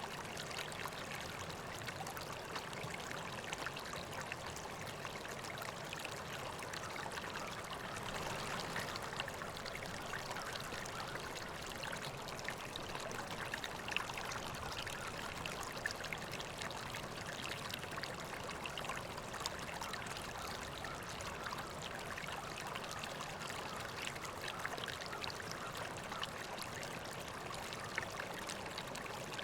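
River water flowing and trickling steadily over rocks, with a dense patter of small splashes.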